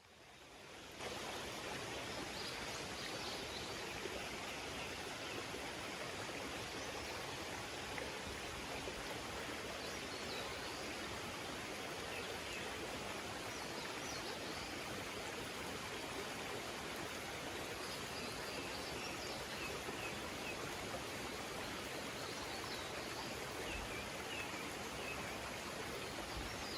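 Mountain stream rushing steadily, with faint bird calls chirping here and there above it. The water sound fades in over the first second.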